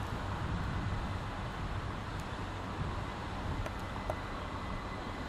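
Low, steady rumble of a train moving slowly through a rail yard, heard from afar: the C11 steam locomotive with two blue OHA 14 coaches. A few faint clicks come about four seconds in.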